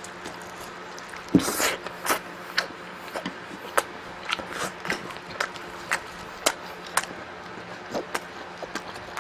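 Close-miked eating sounds: irregular wet clicks and crunches of chewing and biting, with a louder burst about a second and a half in, over a faint steady hum.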